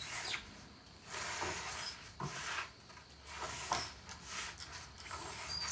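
Wooden boards being handled, scraping and rubbing against each other, with a few light knocks.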